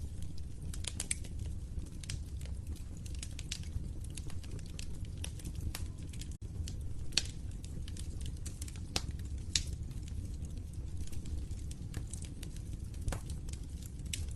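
Wood fire burning in a fireplace: a steady low rumble of flames with irregular crackles and sharp pops scattered throughout. The sound cuts out for an instant about six seconds in.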